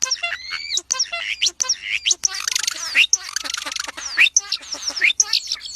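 A group of birds chirping and calling in quick, overlapping bursts of short rising and falling whistles, with a harsher, buzzy call in the middle.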